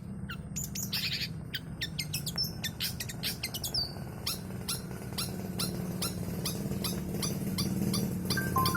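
Long-tailed shrike (cendet) singing a fast run of sharp, high, falling chirps, about three to four a second, with a couple of short whistled notes near the end. A steady low hum runs underneath.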